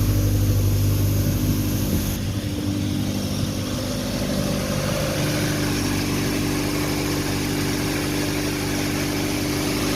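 1985 Honda Prelude's 2.0-litre four-cylinder engine idling steadily.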